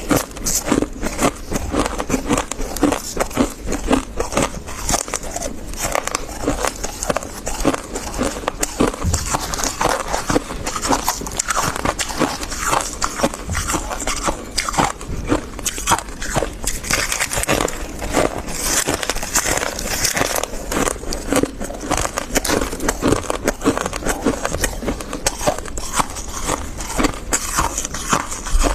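Dry, crispy freezer frost being bitten and chewed close to the microphone, a dense, continuous crunching and crackling.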